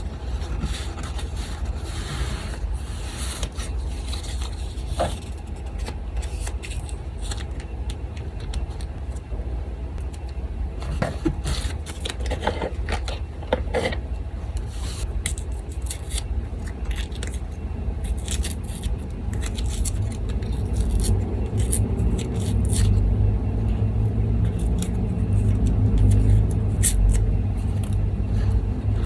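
Paper being handled and scraped on a desk, with scattered small rustles and clicks, over a steady low hum that grows louder in the last several seconds.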